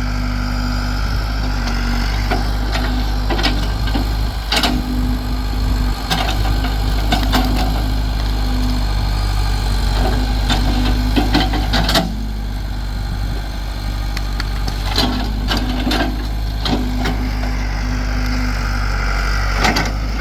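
A backhoe's engine runs steadily while the machine works, with a whine that comes and goes. Repeated sharp clanks and knocks sound at irregular moments as the bucket knocks the dirt off a tree stump's root ball.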